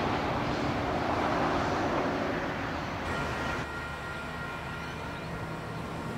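Electric double-deck passenger train running past on the line, a steady rushing rumble that slowly fades as it draws away. About three and a half seconds in it cuts off suddenly to a quieter steady hum with faint high whines.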